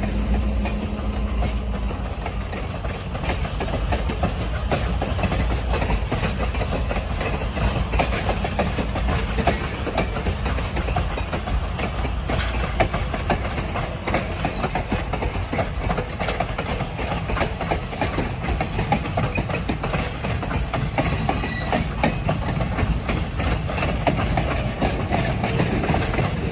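Passenger train cars rolling across a steel girder bridge: steady low rumble with a constant clickety-clack of wheels over the rail joints, and a brief high-pitched squeal about three-quarters of the way through.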